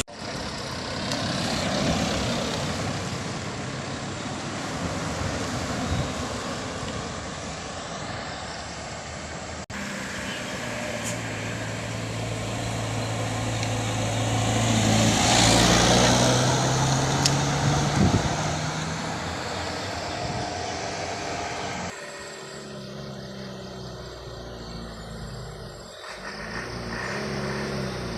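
Truck engine running with road noise. About ten seconds in, the engine note rises in pitch and the noise grows louder to a peak around the middle, then eases off. The sound changes abruptly twice.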